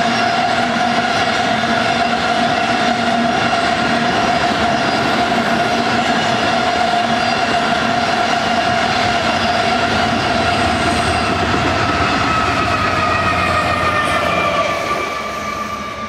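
Freight train of tank cars rolling past on a curve. Steady high wheel squeal sounds over the rumble of the wheels. The rear locomotive goes by partway through, and the sound drops away about a second before the end as the train's tail passes, with the squeal falling slightly in pitch.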